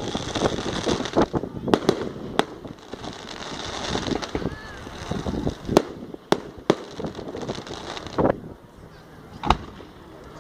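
Fireworks going off: dense crackling at the start and again a little before the end, with separate sharp bangs scattered through, the last of them near the end.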